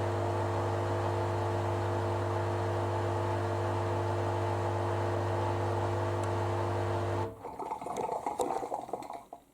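Hoover Dynamic Next washer-dryer's drain pump running at the end of the cycle, a steady mains-pitched hum with water noise. It stops abruptly about seven seconds in, leaving faint irregular noises from the machine.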